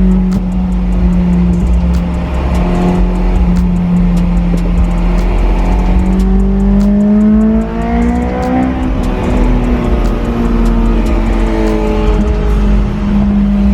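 Supercharged Honda S2000 four-cylinder engine through a 3-inch HKS exhaust, heard from inside the moving car. It runs at a steady cruise with a deep tone, then the revs climb for about two seconds, drop briefly as the throttle lifts around eight seconds in, and settle back to a steady cruise.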